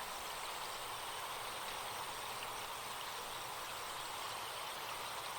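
Steady rushing of a forest stream, a recorded nature-sound bed.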